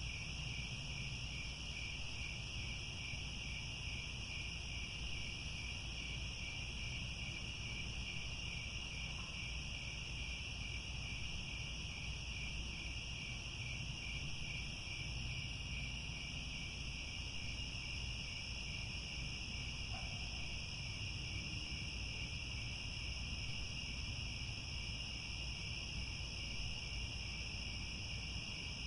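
A dense chorus of crickets chirping, a steady high-pitched trill that never breaks, over a faint low rumble.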